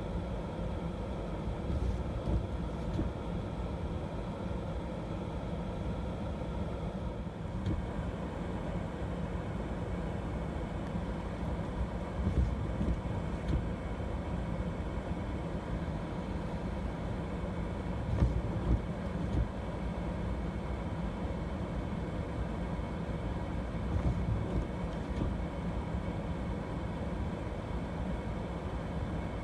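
Steady hum of an idling vehicle heard from inside a stopped car's cabin, with a few faint knocks. One higher tone drops out about seven seconds in.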